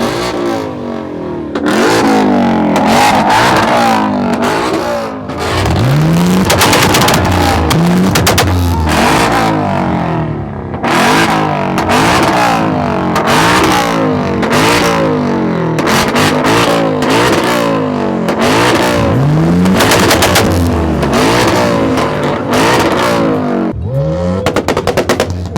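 Car engine revved hard over and over, its pitch rising and falling in repeated sweeps, with many sharp cracks from the exhaust between revs.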